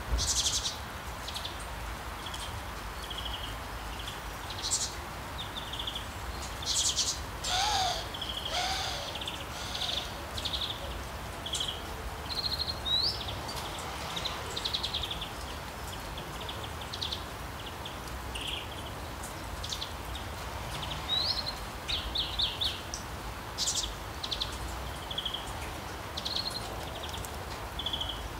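Birds chirping and calling, many short high chirps and whistles scattered over a steady background hiss, with one louder call of falling notes about eight seconds in.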